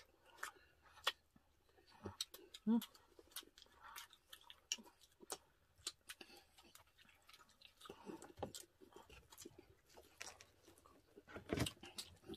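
Close-miked eating of crispy roast pig's head (lechon) by hand: wet chewing, lip smacks and scattered crunches of the crackling skin, with a brief hum about three seconds in and a louder run of smacks near the end.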